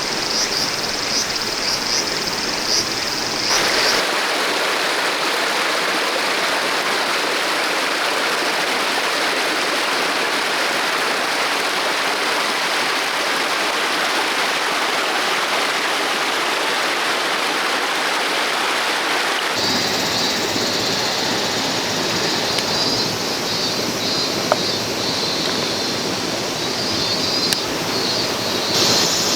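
A shallow stream rushing steadily over rocks. Insects shrill over it at the start, and again in the last third, after the sound changes abruptly twice.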